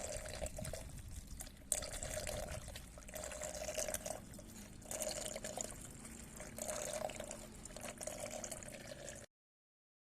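Liquid being poured from a container into a vehicle's filler, gurgling in uneven surges about once a second. The sound cuts off suddenly near the end.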